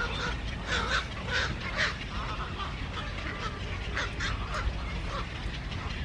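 Birds calling: a quick run of short calls in the first two seconds and another cluster about four seconds in, over a steady low background noise.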